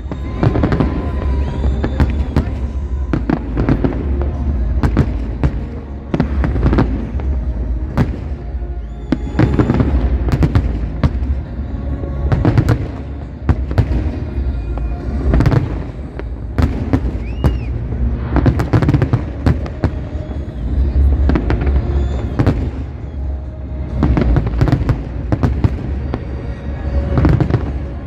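Aerial firework shells bursting in a dense barrage of sharp bangs, coming in volleys every few seconds over a steady low rumble.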